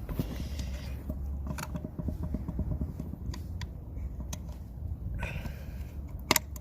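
Scattered light clicks and knocks of a part being handled and pushed into place, with one sharp click about six seconds in, over a low steady rumble.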